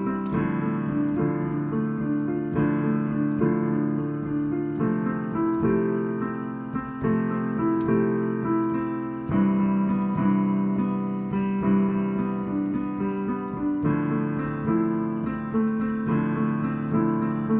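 Freestyle piano playing: improvised chords and melody, held notes changing about every half second to a second.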